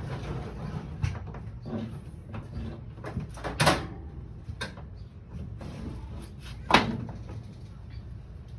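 A few separate knocks and clunks, as of objects being handled and set down, the two sharpest about three and a half and nearly seven seconds in, over a steady low hum.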